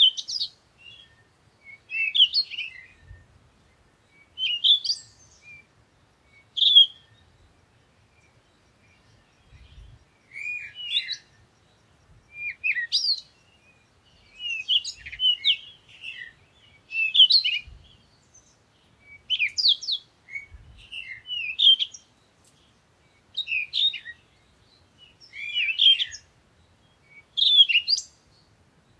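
Songbird chirping in short, quick phrases, one about every two seconds.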